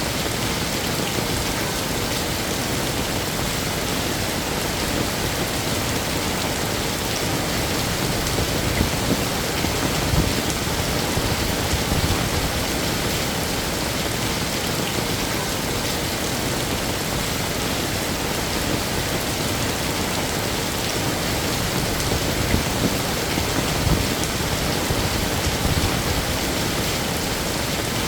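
Heavy rain falling steadily, a dense even hiss of drops on hard surfaces, with a few brief low thumps scattered through it.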